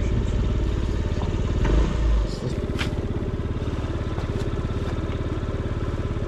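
Delivery scooter's small engine running with an even, fast putter. A louder low rumble swells about two seconds in, then the engine settles back to a steady beat. There is a sharp click just before three seconds.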